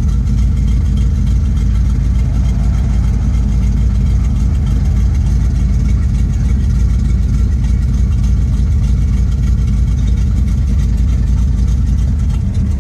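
Chevy 305 small-block V8 with a Crane 274H06 camshaft and headers, running steadily just after a cold start, held on a little throttle. The engine is cold and on thick oil, and it will not yet hold an idle on its own.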